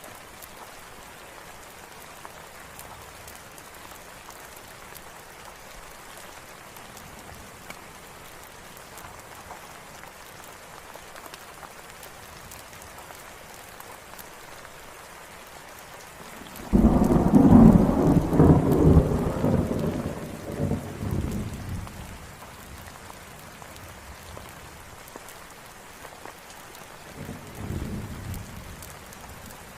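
Steady rain falling. A little past halfway a sudden loud clap of thunder breaks in and rumbles away over about five seconds, and a fainter roll of thunder follows near the end.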